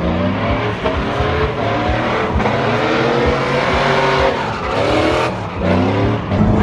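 Several truck engines running and revving at once, their pitch climbing and dropping repeatedly.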